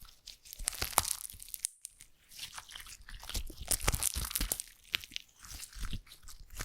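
Slime being squeezed and worked by hand close to the microphone, giving dense, irregular crisp crackles and clicks with a short pause about two seconds in.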